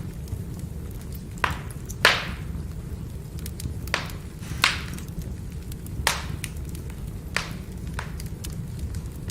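Firewood burning with a steady low rumble of flame and sharp crackles and pops from the logs, about seven in all, the loudest about two seconds in.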